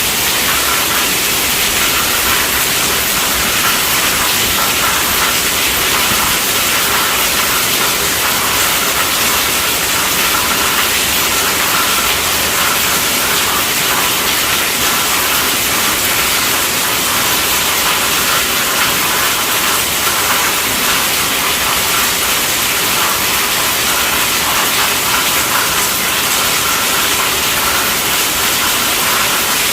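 Steady rainfall: an even hiss that goes on unbroken.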